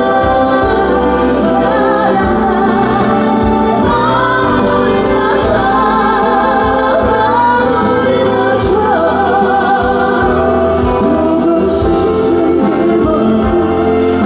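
A female trot singer sings live with wavering vibrato over a full instrumental backing.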